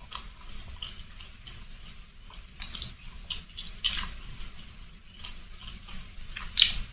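Close-miked eating of spicy vermicelli noodle soup: a run of short, wet mouth clicks and slurps, with one sharper, louder click near the end.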